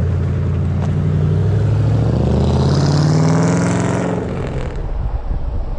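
Car engine accelerating, its pitch rising steadily for about four seconds, then dropping away into a low rumble.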